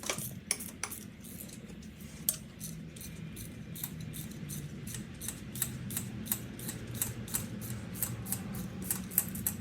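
Ratchet wrench clicking in a quick, fairly even series, about three to four clicks a second, as a nut on the turbo flange is backed off.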